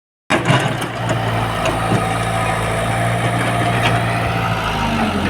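Sonalika tractor's diesel engine running steadily, with a few light clicks or knocks over the top.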